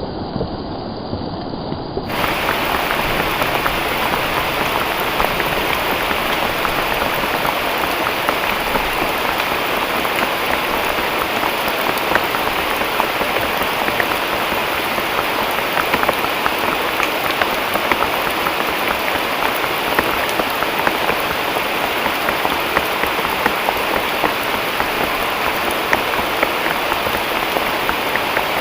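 Heavy rain falling steadily, a dense even hiss flecked with countless individual drop ticks. About two seconds in it becomes louder and fuller.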